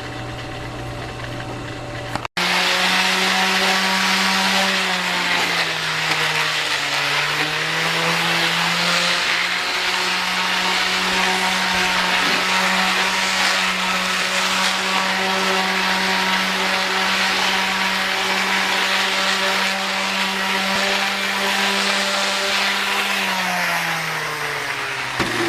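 Electric power tool's motor running loud and steady on pine, smoothing off sharp corners. Its pitch dips for a couple of seconds under load early on, then falls as it winds down near the end. Before a sudden cut about two seconds in, a lower steady hum is heard.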